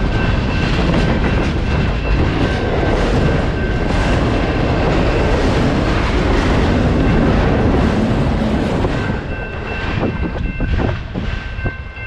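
Freight cars rolling past close by, a dense steady rumble and rattle of boxcars and autorack cars on the rails. It eases off about nine seconds in as the tail of the train goes by, leaving separate wheel clicks over the rail joints. A steady high ringing, the grade-crossing signal's bell, carries through and stands out once the train noise drops.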